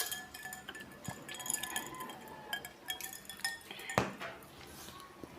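Spoons clinking and scraping against plates and dishes while eating: a run of small ringing clinks, with a sharper knock about four seconds in.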